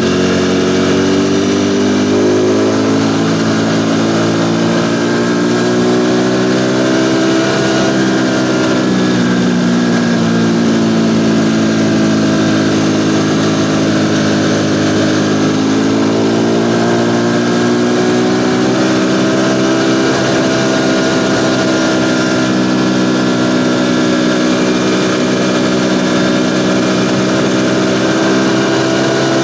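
Ducati Panigale V4 engine running steadily and loudly, its pitch sinking slowly over the first ten seconds, climbing again for several seconds, then easing and rising once more.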